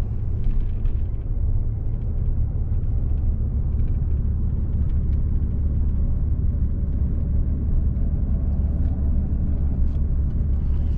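Car driving along a road: a steady low rumble of engine and road noise, heard from inside the cabin.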